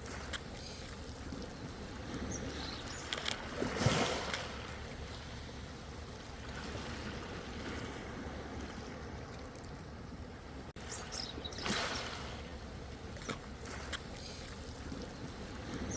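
Ocean waves washing and splashing against the shore over a steady low rumble, with louder surges of splash about four seconds in and again near twelve seconds.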